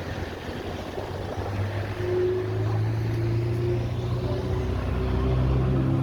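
A motor vehicle's engine running close by, a steady low hum that comes in and grows louder about two seconds in, over the noise of street traffic.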